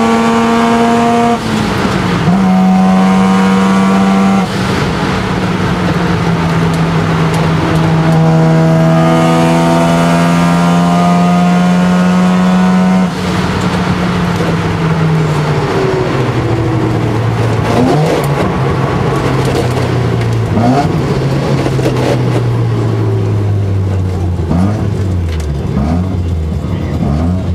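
Single-turbo Mazda 13B twin-rotor rotary engine of an RX-7 FD3S under full throttle, heard from inside the cockpit. Its note climbs through the gears with quick upshifts about one and a half and four and a half seconds in, then a long pull. About 13 s in the driver lifts off, and the engine note falls steadily as the car slows, with scattered pops.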